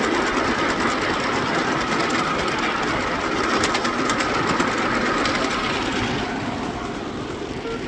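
Battery-powered ride-on miniature railway locomotive, a model Class 08 shunter, running on the track: a steady electric motor whine with wheels clicking over rail joints. The sound eases off about six seconds in as the train slows.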